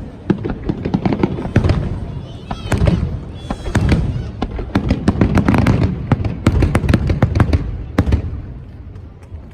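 Aerial fireworks display: a rapid barrage of bangs and crackles from bursting shells over a low rumble of booms, thinning out near the end.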